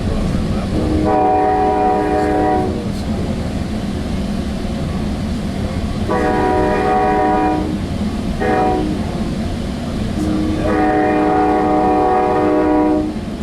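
Sound Transit Sounder commuter train's horn sounding the grade-crossing signal: two long blasts, a short one, then a final long one. Under it is the steady rumble of the train running on the rails, heard from on board.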